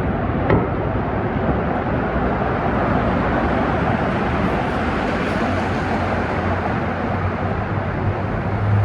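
Loud, steady rushing noise with a low hum underneath; it cuts off suddenly near the end.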